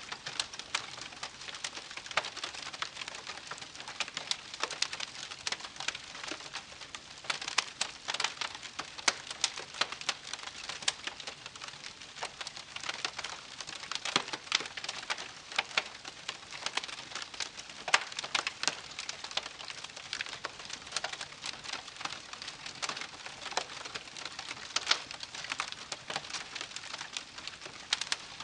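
Wood campfire burning, crackling steadily with irregular sharp pops and snaps over a soft hiss.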